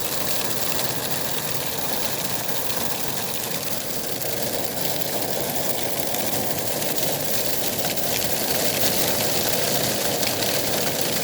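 Heavy rain mixed with hail drumming on the car's roof and windows, heard from inside the car: a dense, steady hiss with many tiny hits.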